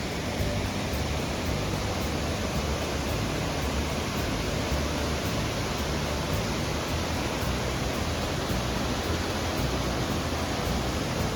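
Steady rushing water, an even roar with a deep rumble underneath.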